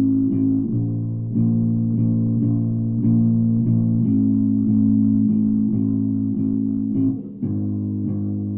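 Ibanez Jumpstart four-string electric bass played solo, a line of plucked notes changing every half second or so, then a longer held note about seven and a half seconds in. The sound is dull and muffled, with little treble, as recorded through a phone's microphone.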